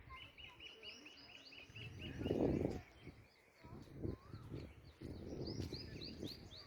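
A bird calling in a fast run of short repeated notes, about five a second, then a run of higher, rising notes near the end. Under it a low rumble comes and goes, loudest about two and a half seconds in.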